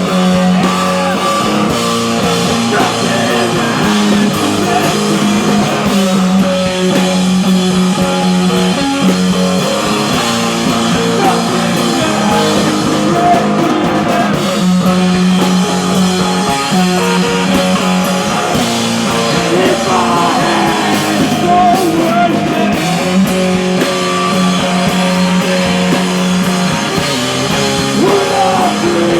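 Live rock band playing loud and continuous: guitars and drum kit, with some singing.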